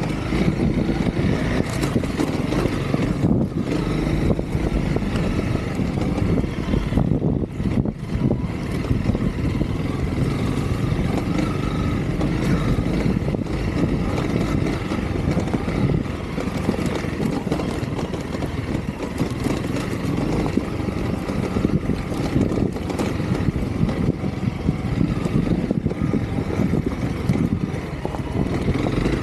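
Honda CRF300L dual-sport motorcycle's single-cylinder four-stroke engine running steadily as the bike is ridden.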